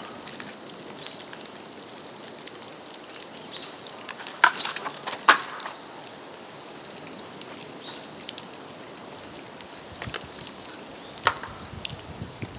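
Bamboo burning in an open bonfire, crackling with a few sharp pops as the stalks burst in the heat, two close together about halfway through and another near the end. Over it runs a steady high-pitched whistle with short breaks.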